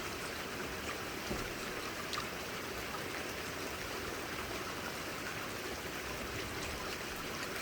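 Heavy rainstorm: a steady rush of pouring rain and running water, with a few faint ticks of drops or small hail striking.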